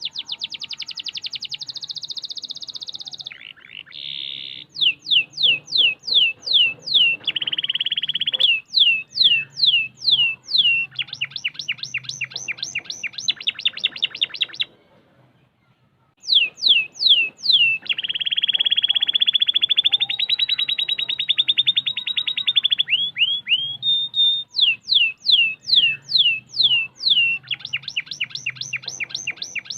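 Canary singing a long song of tight, fast rolls: runs of quick down-sweeping notes alternate with buzzy, rapidly repeated trills. The song breaks off for about a second and a half around the middle, then starts again.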